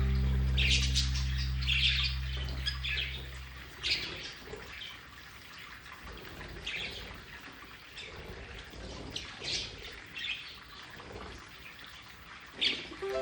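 Budgerigars chirping, many short high chirps scattered throughout. A held low music chord fades out about four seconds in.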